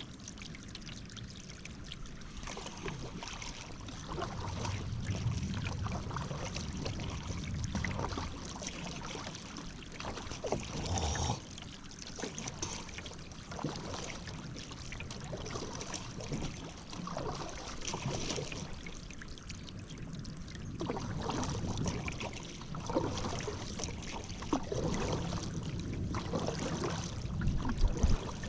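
Paddle strokes through river water, the blade dipping and pulling in an uneven rhythm with water trickling off it between strokes. A brief sharp sound about eleven seconds in, and the loudest noise near the end.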